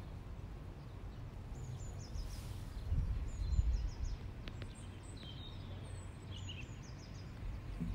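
Small birds chirping in the trees: short, high, falling chirps in quick runs, over a low rumble that swells about three seconds in.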